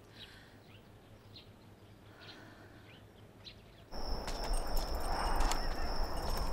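Faint, sparse bird chirps over quiet ambience. About four seconds in, the sound cuts abruptly to a much louder rushing ambience with a steady high-pitched whistle and a low rumble.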